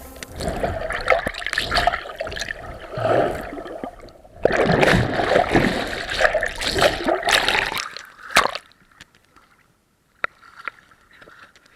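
Water splashing and gurgling close to a kayak-mounted action camera. It dies away about eight seconds in, leaving near quiet with a few small clicks.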